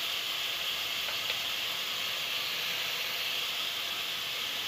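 Chicken pieces and sliced onion sizzling steadily in hot oil in a pan.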